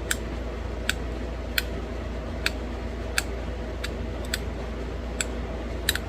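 Sharp, irregular clicks of small flakes popping off a thin novaculite bird point under pressure flaking, about ten in all with a quick double near the end. A steady low hum lies underneath.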